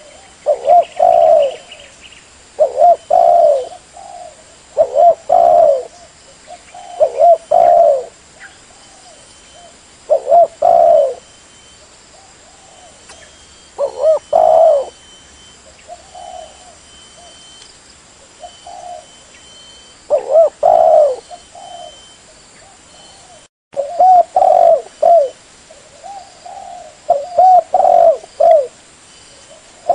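Spotted dove (tekukur) cooing over and over, each phrase a run of two or three low coos, repeating every second or two with fainter coos in between. The sound cuts out completely for a moment about two-thirds of the way through.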